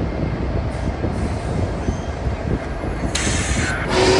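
Union Pacific Big Boy No. 4014, a 4-8-8-4 articulated steam locomotive, rumbling directly overhead across a bridge. A short burst of hiss comes about three seconds in, and its steam whistle starts sounding right at the end.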